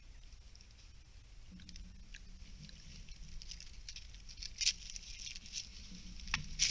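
Scattered rustles and sharp crackles of dry forest leaf litter, getting busier toward the end, as an animal moves close to the trail camera, over a steady high hiss.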